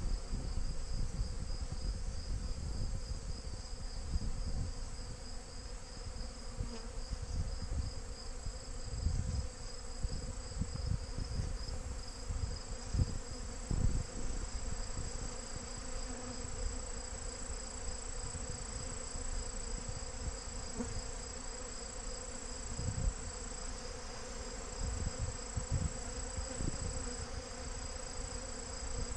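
Dense buzzing of a crowd of robber honey bees swarming over a sealed-up beehive as they try to force their way in. A steady high insect trill runs over it, and there are scattered low gusts of wind noise on the microphone.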